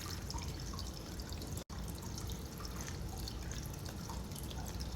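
Faint close-up chewing and small wet mouth clicks from eating, over a low steady room hum, with a brief dropout about a third of the way through.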